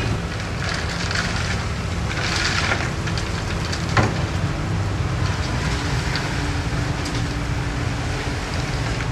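Heavy earthmoving machine's diesel engine running steadily, with gritty crackling of soil and stones shifting over it and a sharp knock about four seconds in.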